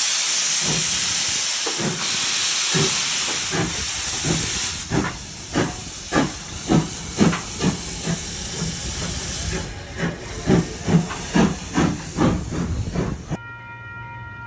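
Steam locomotive letting off a loud hiss of steam, then moving off with its exhaust beating about twice a second. Near the end the sound cuts off suddenly to a steady, quieter hum.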